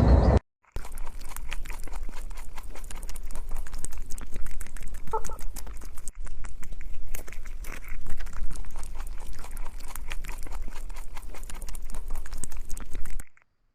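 Dense, irregular clicking and rustling over a steady low hum, with one short squeak about five seconds in.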